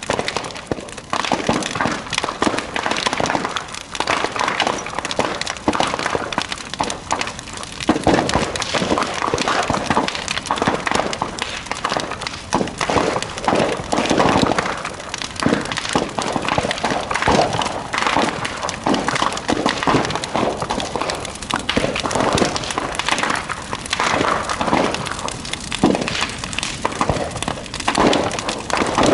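Large bonfire burning, crackling and popping with many sharp snaps.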